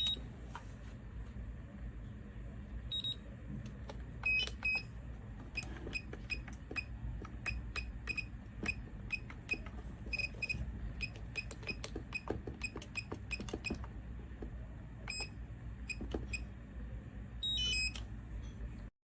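Electronic device beeping: many short, high single beeps, several a second through the middle, with a few quick multi-note chirps near the start, around four seconds in and near the end, over a low steady hum.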